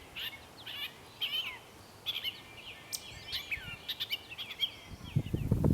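Songbirds singing in spring: a run of short, quick chirping and warbling phrases, often overlapping. A low rustling noise starts near the end.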